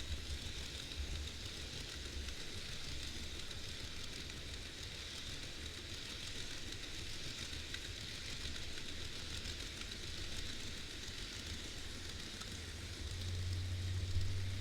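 N-gauge model train, a model EF200 locomotive pulling container wagons, running along the track: a steady rolling hiss of small wheels on rail over a low motor hum, the hum growing louder near the end.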